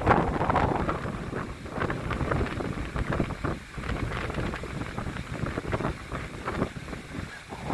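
Strong wind buffeting the microphone in uneven gusts, a rumbling rush that swells and drops every second or so.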